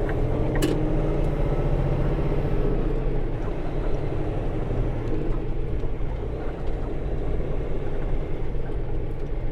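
Semi truck's diesel engine running at low speed, a steady low hum, with one sharp click a little under a second in.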